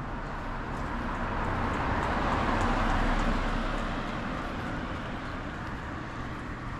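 A vehicle passing by, its noise swelling to its loudest about three seconds in and then fading away.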